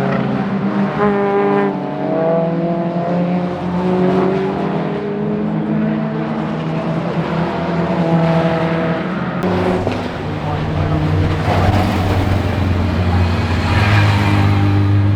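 Alfa Romeo 33 race car's flat-four engine at racing speed, its revs repeatedly climbing and dropping through gear changes. About two thirds of the way through, the sound turns to a deeper, steadier drone.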